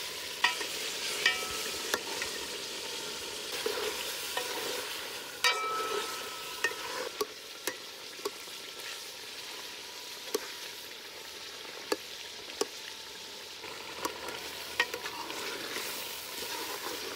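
Chicken and tomatoes frying in ghee in an aluminium pot with a steady sizzle, while a metal spoon stirs them and knocks against the pot in repeated, irregular sharp clinks, a few of them ringing briefly.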